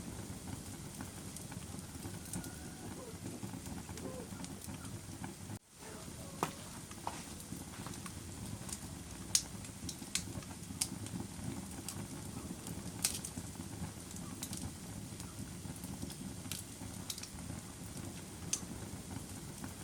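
Wood fire in a fireplace burning with a steady low rush and scattered sharp crackles and pops. The sound drops out for an instant about five and a half seconds in.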